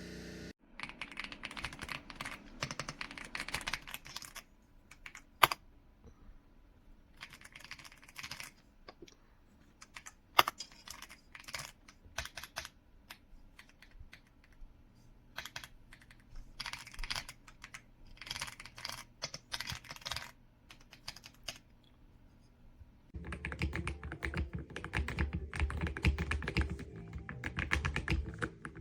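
AULA F75 mechanical keyboard with pre-lubed Reaper switches being typed on in bursts of rapid keystrokes, broken by pauses and a few single sharper key presses. Toward the end the typing turns continuous and fuller.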